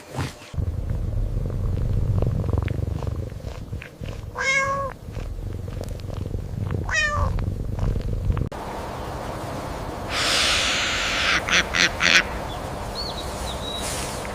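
An animal's low, steady rumble with two short calls that rise and then fall in pitch. Then an abrupt change to a different recording: a steady hiss, a short burst of noise with a few sharp clicks, and a faint high chirp near the end.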